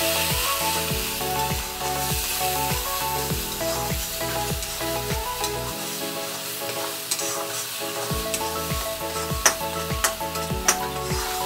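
Thick onion-garlic-chilli paste sizzling in hot oil in a steel karahi while a spatula stirs it, with a few sharp scrapes of the spatula on the pan near the end. Background music with a steady beat runs underneath.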